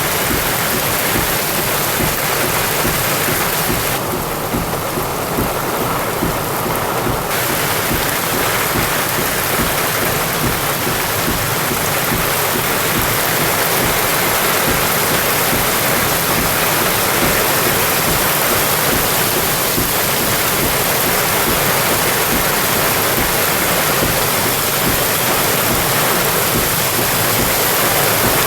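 Heavy rainstorm water rushing in a steady, loud hiss. From about four to seven seconds in it sounds briefly duller.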